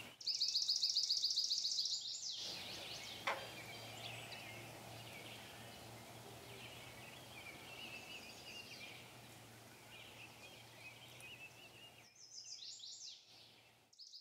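Birds chirping over a faint steady low hum, with a loud, fast buzzing trill in the first two seconds and again near the end.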